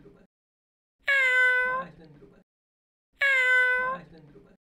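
A tabby-and-white kitten meowing twice, about two seconds apart; each meow is a short, even-pitched call lasting under a second.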